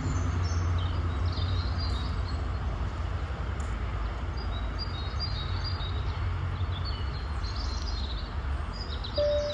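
Birds chirping, short high calls scattered throughout, over a steady low rumble.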